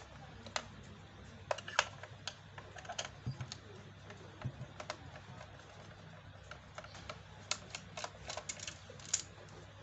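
Irregular light clicks and taps of small objects being handled on a workbench, a few to several a second in scattered clusters, over a faint steady low hum.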